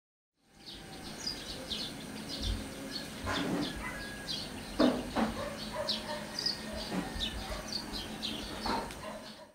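Small birds chirping repeatedly over a steady thin high tone, with a few short knocks.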